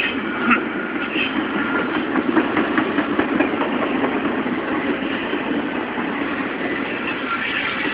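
Norfolk Southern double-stack intermodal train's loaded well cars rolling past: a steady rumble of steel wheels on rail, with rapid clicking and clatter through the middle and a brief squeal near the start.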